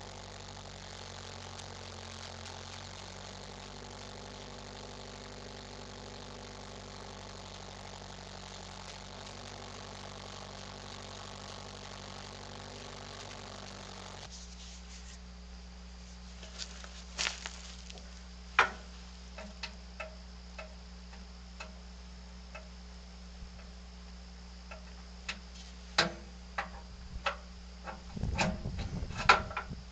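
Skid steer engine idling steadily. About halfway through it gives way abruptly to a lower steady hum, with scattered sharp metal clanks and knocks that come thicker and louder near the end.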